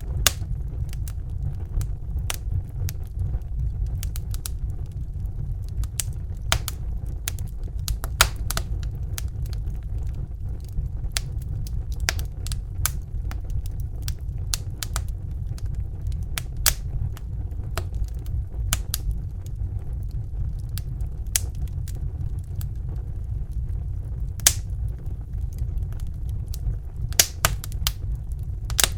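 Wood fire crackling: irregular sharp snaps and pops, a few louder than the rest, over a steady low rumble.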